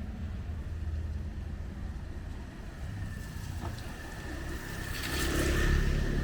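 Street traffic running, with a steady low engine rumble; near the end a vehicle passes close, its tyres hissing on the wet road.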